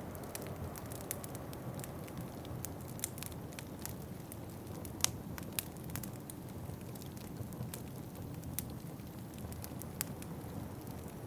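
Wood fire crackling in a fireplace, with scattered sharp pops, the loudest about five seconds in and again near ten seconds, over a steady low rumble.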